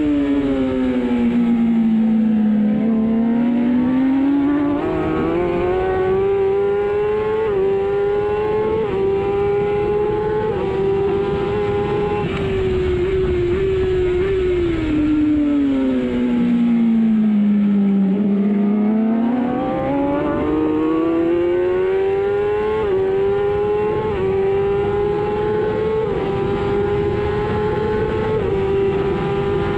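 Racing superbike engine heard from the bike at race speed. The engine note sinks twice, about two seconds in and again past halfway, as the rider brakes and downshifts. After each, it climbs hard through the gears, each quick upshift a small sudden drop in pitch.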